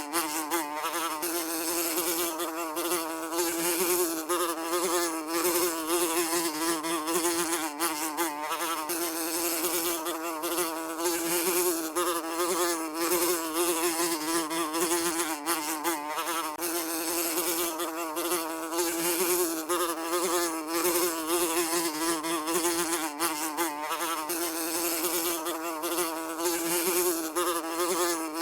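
Housefly buzzing in flight without a break, a steady droning hum whose pitch wavers slightly as it flies.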